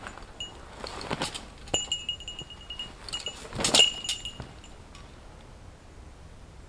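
Small metal bell jingling in a few short rings, with light clinks, the loudest about two thirds of the way through, then fading out.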